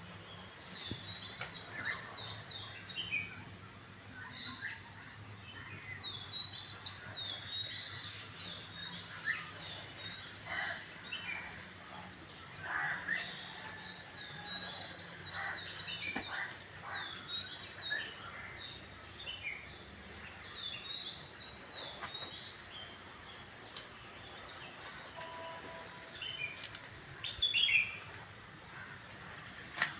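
Birds chirping and calling outdoors, many short quick notes that sweep downward in pitch, with a louder flurry of calls near the end, over a faint low hum.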